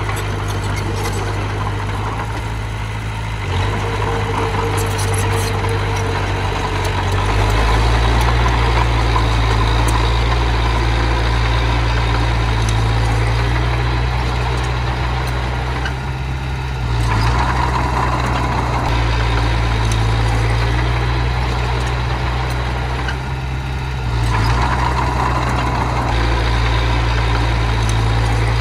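Diesel engine of earthmoving machinery running steadily, its low hum growing heavier about a quarter of the way in, then easing off briefly twice, a little past halfway and again near the end.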